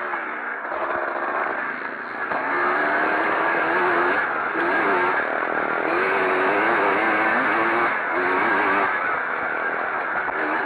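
Vintage pre-65 motocross motorcycles racing, their engines revving up and down over and over.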